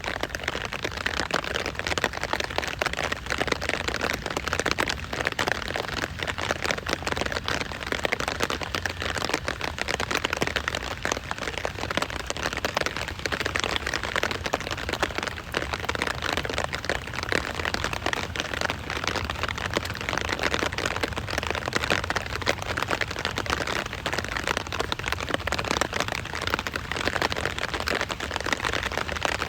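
Steady rain falling, a dense, even patter of many drops hitting a surface without let-up.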